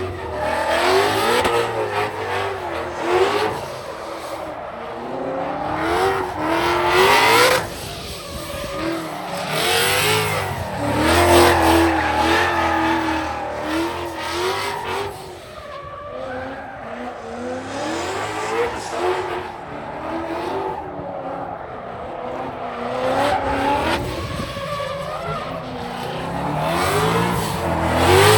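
Cars drifting: engines revving up and down and tyres squealing as they slide, in loud surges that swell and fade every few seconds.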